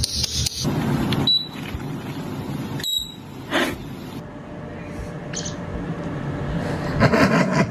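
Parrot mimicking electronic beeps: two short, high beeps, about a second and three seconds in, among bursts of noise.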